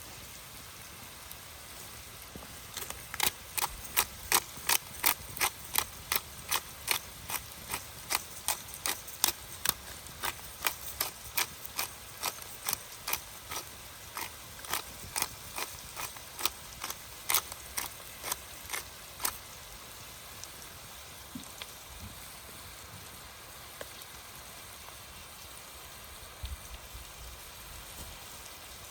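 Steady hiss of rain in the forest, with a long run of sharp ticks, about two or three a second, that starts a few seconds in and stops about two-thirds of the way through.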